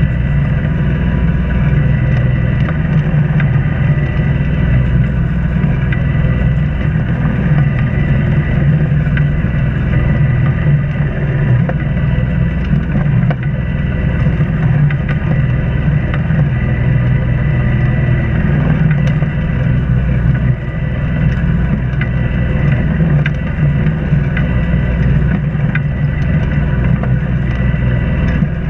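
An Islander 36 sailboat's inboard engine running at a steady speed while the boat motors along.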